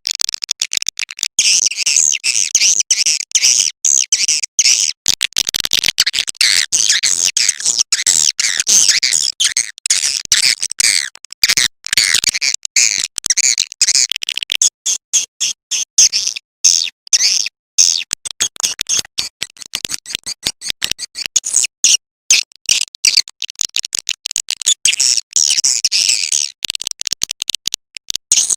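Swiftlet lure call: a dense, rapid, high-pitched twittering of swiftlet chirps, cut by many very short gaps.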